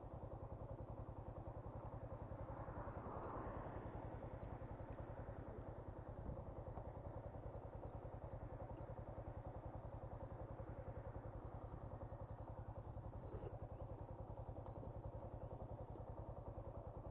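Motorcycle engine idling steadily, an even run of rapid exhaust pulses.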